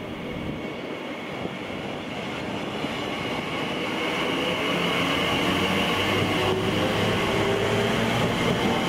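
A train approaching along the line, its rumble and rail noise growing steadily louder, with a deeper steady hum joining about six seconds in.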